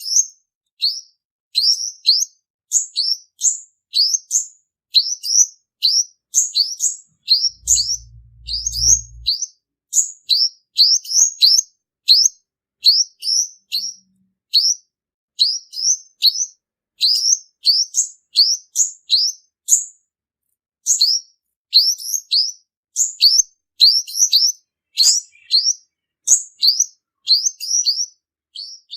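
Male olive-backed sunbird (purple-throated sunbird) singing a fast, unbroken string of short, high chirps, about two to three a second, the song used as a lure to draw other birds to a trap. A brief low hum sounds about eight seconds in.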